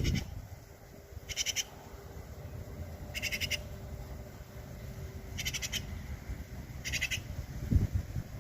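Magpie giving four harsh, rattling chatter calls, each about a third of a second long and spaced about two seconds apart. A low rumble is also heard, louder at the start and near the end.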